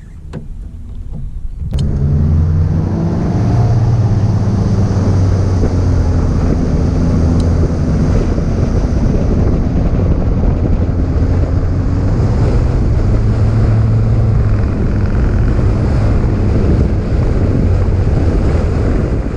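Boat outboard motor starts pulling hard about two seconds in, its pitch climbing briefly before it runs steadily at speed. Wind buffets the microphone.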